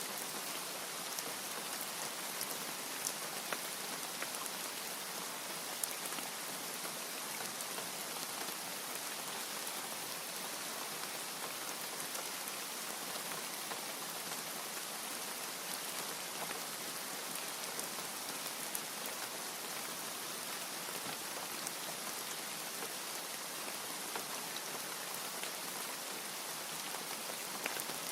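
Steady rain: an even hiss with scattered sharp ticks of drops striking a surface.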